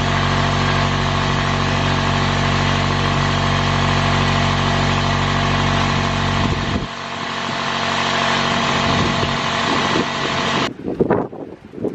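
A motor running steadily with an even hum; about seven seconds in its low hum cuts out while a hiss carries on. Near the end, uneven gusts of wind buffet the microphone.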